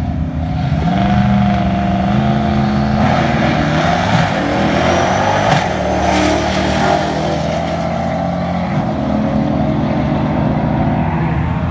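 Drag-car engines running at the strip, the engine note rising and growing louder between about three and seven seconds in, then settling back to a steady run.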